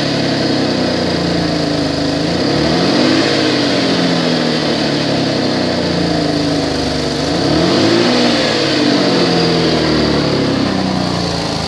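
2012 Chevrolet Impala's 3.6-litre V6 running and revved up and back down twice, about three seconds in and again near eight seconds, with an exhaust leak at the flex pipe.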